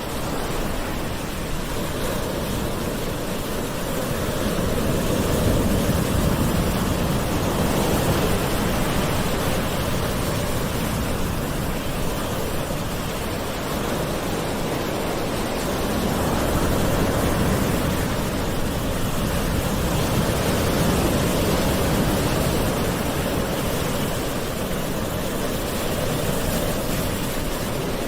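Gentle sea waves washing on a shore: a continuous rush of surf that swells slowly and eases back twice.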